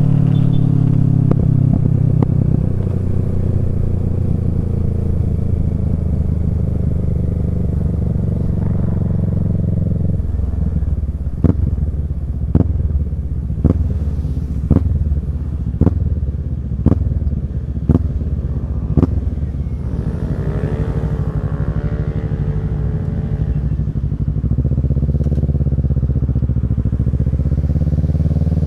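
Kawasaki Z650 parallel-twin engine through a Yoshimura Alpha exhaust, its revs falling steadily as the bike slows. It then holds a low steady note under a run of about eight sharp cracks roughly a second apart, and revs up and down again in the last part.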